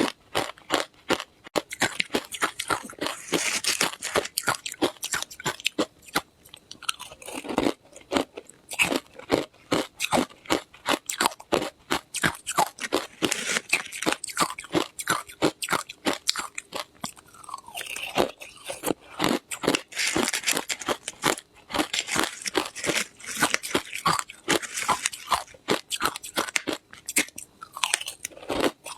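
Ice being bitten and chewed, a quick run of sharp, brittle crunches, several a second.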